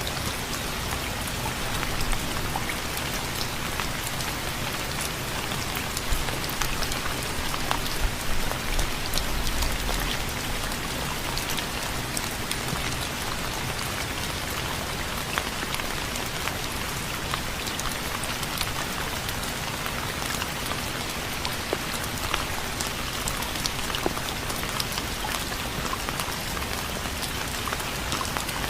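Steady rain falling on a surface, with a constant hiss and many separate drops ticking close by; a cluster of louder drop hits comes about a quarter of the way in.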